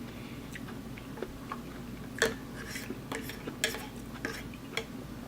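A utensil clicking and tapping against a noodle bowl, a few scattered light clicks with the sharpest about two seconds in, over a steady low hum.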